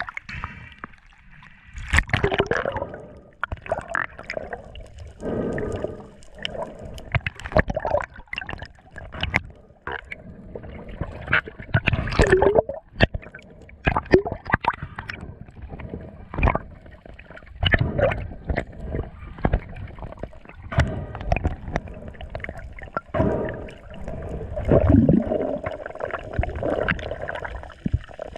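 Sea water sloshing and gurgling around the camera, with irregular splashes.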